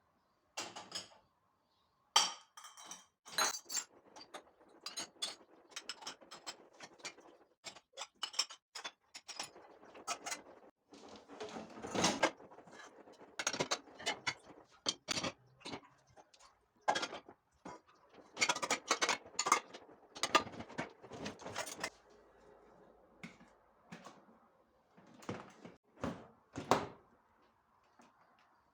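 Kitchen items being handled during cleaning: a busy, irregular run of clicks, knocks and clatter of objects picked up and set down on a counter, with louder knocks about twelve seconds in and near the end.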